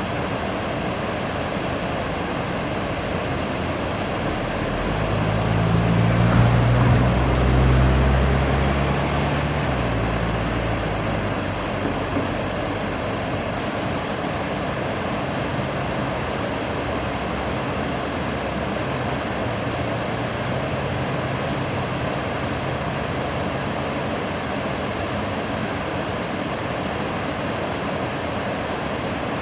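Steady rushing of river water, with a low engine hum swelling and fading about five to ten seconds in.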